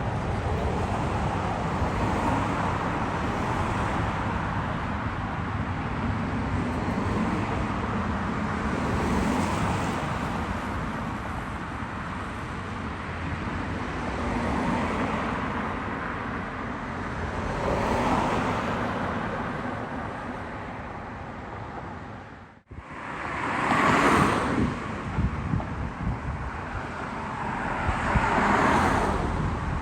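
Road traffic: a steady rumble of vehicles with several passing by one after another, swelling and fading about four times. The sound drops out suddenly for a moment about two thirds of the way through.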